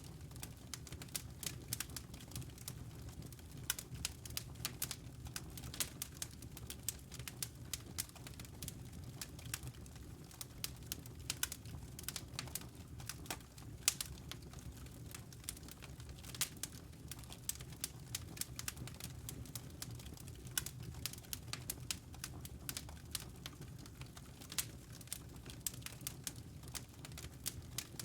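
Wood logs burning in a fireplace: irregular sharp crackles and pops, several each second, over a low steady rumble.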